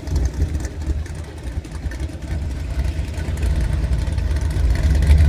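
A car engine running with a low rumble that dips about a second in and grows louder toward the end.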